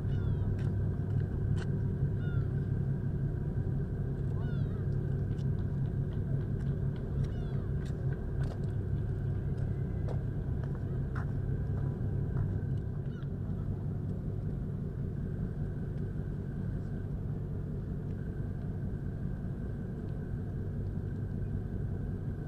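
Steady low rumble and hum of a large cruise ship running in port, with scattered short bird chirps and a few clicks, mostly in the first half.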